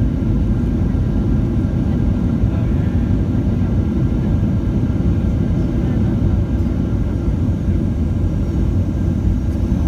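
Boeing 737-800 airliner: a steady, loud, low rumble with faint steady whining tones above it.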